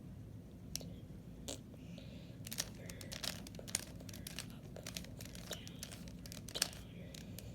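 A plastic 3x3 Rubik's Cube being twisted by hand: irregular clicks and clatters of the layers turning, coming in quick runs from about two seconds in. A low steady hum underneath.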